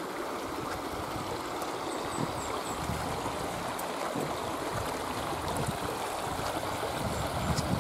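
Shallow river water running over stones: a steady rushing hiss. A few faint, short high chirps come about two seconds in.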